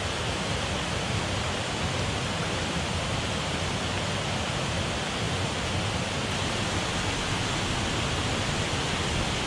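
Steady, even rushing of Cauldron Falls and its beck.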